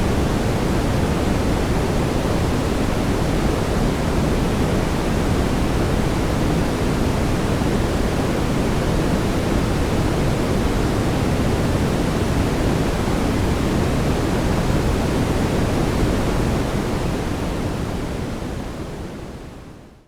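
Synthetic brown noise: a steady, even rush weighted toward the low end, fading out over the last few seconds.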